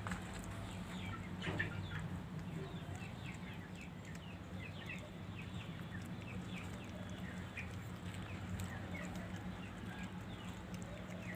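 Birds chirping: many short, falling chirps, a few a second, over a steady low hum.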